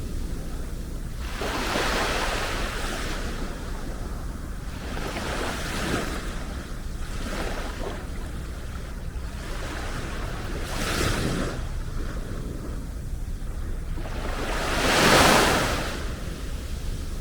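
Sea waves breaking and washing up the beach, several in turn, each surge rising and falling away, the loudest near the end. A steady low rumble runs underneath.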